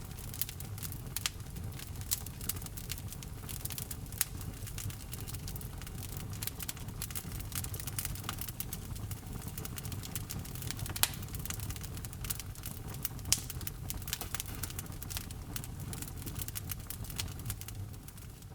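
Wood fire burning in a fireplace: a steady low rumble of flames with constant crackling and a few louder pops.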